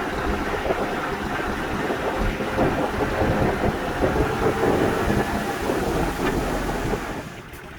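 Heavy earthmoving machinery at work: a diesel engine running under load beneath a dense rumble and clatter. The sound grows louder in the middle and falls away near the end.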